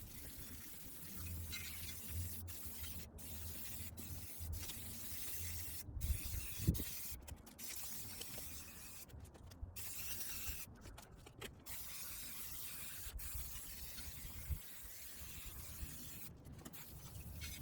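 Faint rubbing and scraping of hands and tools working over a mini bike, broken into short pieces by several brief dropouts.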